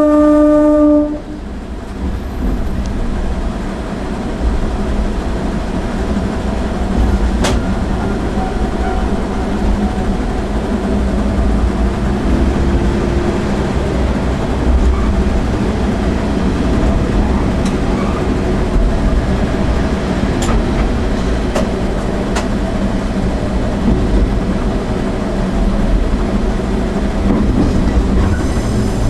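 Diesel railcar's horn sounding one steady note that cuts off about a second in, then the railcar running on with a steady engine and wheel rumble, heard from inside the driver's cab. A few sharp clicks come as the wheels cross rail joints and points in the station yard.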